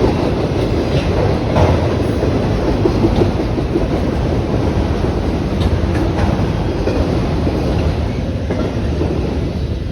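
A train rolling past: a steady rumble of wheels on rail with occasional clicks as wheels pass over rail joints, easing a little near the end.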